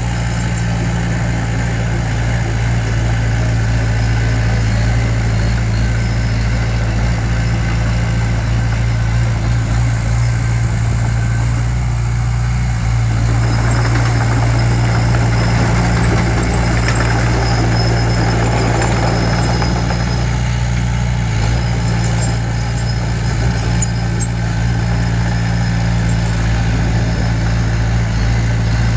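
Diesel engine of a construction machine running steadily, with louder working noise for several seconds in the middle.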